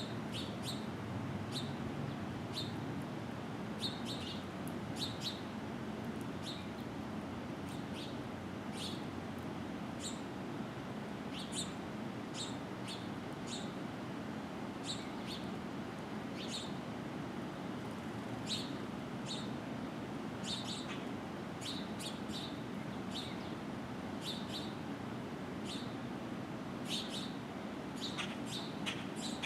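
Birds at a feeder giving short, sharp, high chirps, scattered irregularly and coming thicker near the end, over a steady low background hum.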